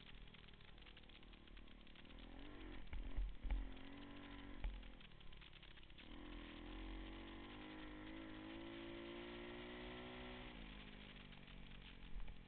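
Small pit bike engine running and being ridden, its pitch wavering under the throttle early on, then climbing steadily for about four seconds and dropping off near the end. A few loud low thumps about three seconds in.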